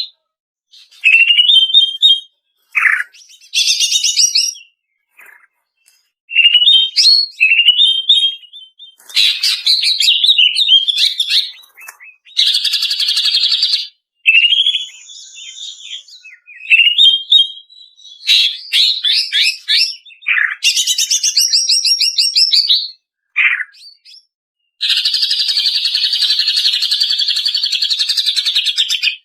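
Female green leafbird (cucak ijo) calling in separate phrases: short rising whistled notes, quick chirps and fast trills with brief pauses between them, then a long harsh rattling call over the last four seconds.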